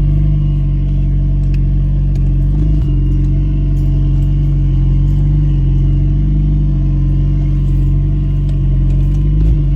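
Nissan 240SX engine idling steadily in park, with an even low-pitched rumble and no revving.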